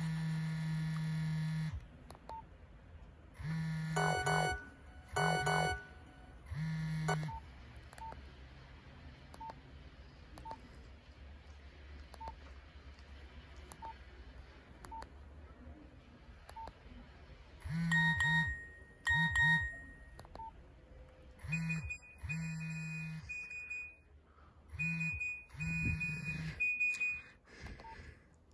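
Nokia 1112 mobile phone playing short SMS alert tones through its small built-in speaker: several brief groups of electronic beeps, separated by a stretch of faint ticks about once a second in the middle.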